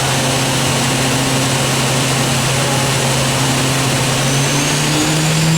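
Spindle of a Kuraki KHM-125 horizontal machining center running steadily at 8,000 RPM, then spinning up toward its 12,000 RPM maximum, its hum and whine rising in pitch about four seconds in.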